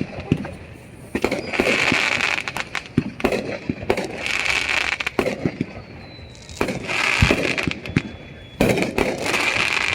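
Fireworks going off: four surges of hissing crackle, each about a second and a half long, peppered with sharp pops, with quieter pauses between them.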